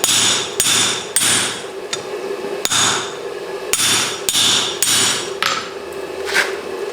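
Forging hammer striking hot mild steel on an anvil, about nine blows at an uneven pace, each with a short metallic ring, over a steady background hum.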